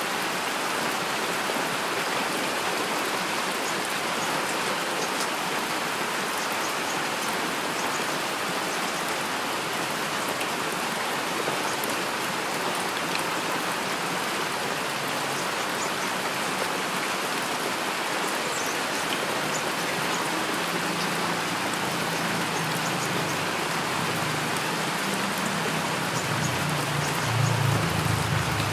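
Heavy rain falling steadily in a dense, even hiss of drops. In the last several seconds a low rumble of distant thunder builds up beneath it.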